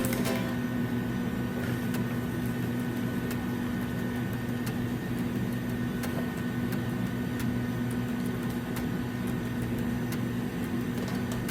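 A steady electrical hum with a faint higher whine, unchanging, with a few faint clicks.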